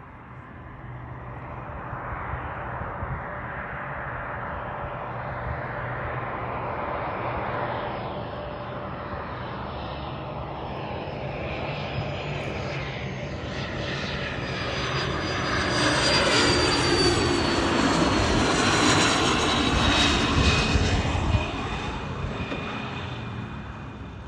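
Cessna Citation CJ1 business jet's twin Williams FJ44 turbofans, growing louder as the jet comes close and passes, most of the way through. Its high whine falls in pitch as it goes by, and the sound then fades.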